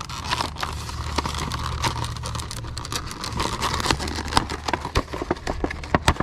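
Packaging of a hand-held lower-unit oil pump crinkling and clicking as it is handled, with many small irregular clicks over a steady low hum.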